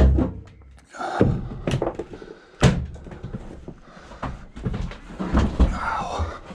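A run of heavy thuds and knocks, irregular, with a sharp bang about two and a half seconds in.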